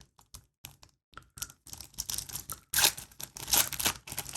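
A trading-card pack wrapper being torn open and crinkled by hand. A few light crackles come first; from about a second in comes denser tearing and crinkling, loudest in the second half.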